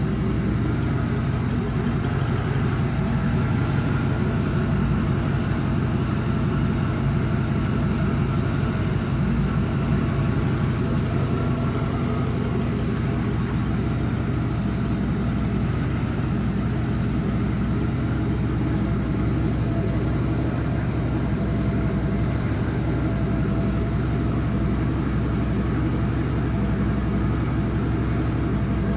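Chevy 5.3L Vortec LM7 V8 idling steadily on an engine run stand, partly warmed up, at about 140 degrees. It runs smoothly with no clattering or squeaking.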